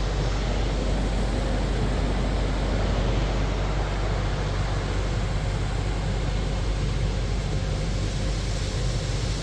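Water from a car wash tunnel's spot-free rinse spraying steadily over the car, a continuous rushing hiss over a steady low rumble.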